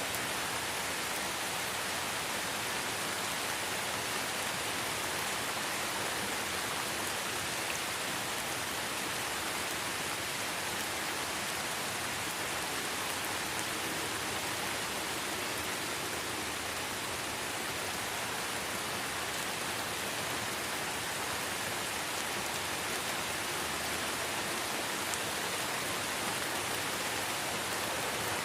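Light rain falling steadily in a forest: an even hiss of drops, with a few faint patters standing out now and then.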